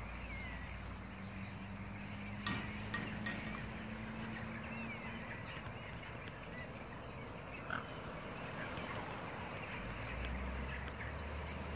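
Scattered bird chirps and calls over a low steady rumble, with one sharp click about two and a half seconds in.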